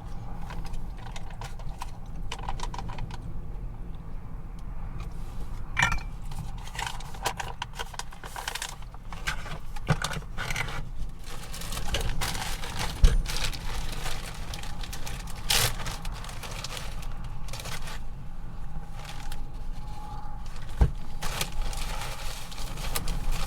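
Small objects being handled at close range: irregular clicks, clinks and scrapes, with a sharp knock about 13 seconds in. Under them a steady low rumble of strong wind buffeting the truck.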